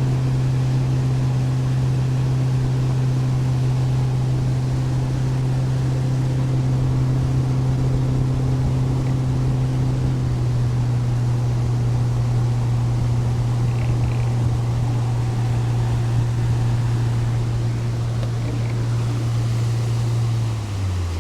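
Boat's outboard motor running steadily at cruising speed, then throttled back near the end, its pitch dropping in two steps as the boat slows.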